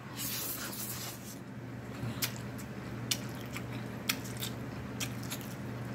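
Close-miked eating of a mouthful of chicken lo mein noodles: a wet slurp as the noodles go in during the first second or so, then chewing with sharp lip smacks and mouth clicks about every half second.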